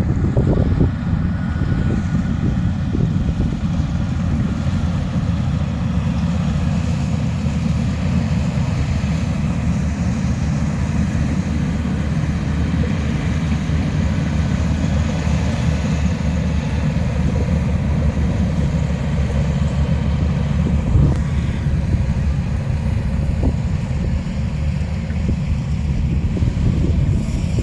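An engine running steadily with a dense low rumble, mixed with wind buffeting the microphone.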